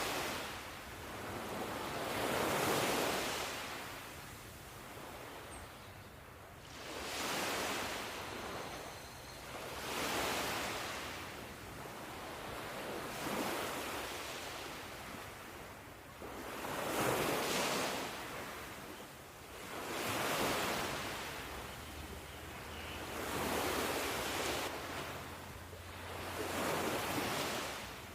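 Ocean waves breaking and washing up the shore, each swell rising and falling away every three to four seconds.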